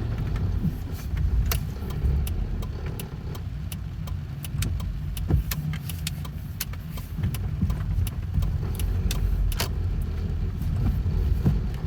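Steady low rumble of a car, with scattered sharp ticks of raindrops striking the car body, several a second.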